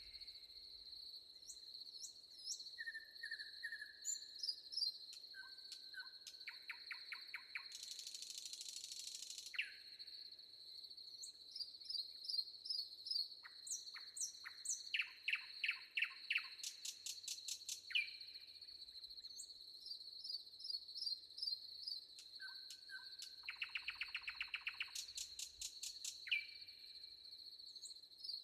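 Forest birds calling and singing in short chirps, whistles and rapid trills, over a steady high-pitched insect drone. A brief hiss comes about eight seconds in.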